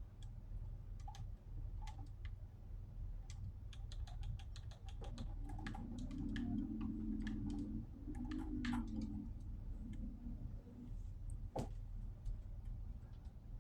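Irregular light clicks and taps, like typing, over a steady low rumble, with a low hum that swells in the middle for a few seconds.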